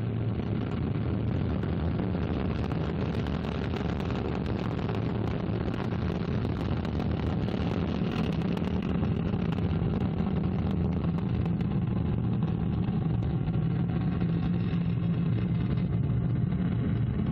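Ariane 5 ECA rocket lifting off: its two solid rocket boosters and Vulcain 2 core engine make a loud, steady, deep rumble with some crackling in the first half, slowly growing louder.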